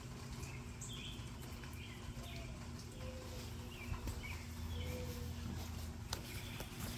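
Birds chirping faintly in short, repeated calls over a steady low hum.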